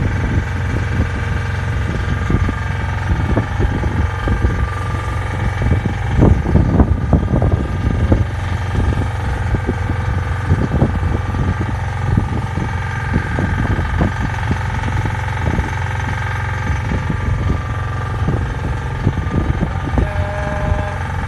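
Boat engine running loudly and steadily: a low rumble with several steady machinery tones over it and frequent irregular crackles.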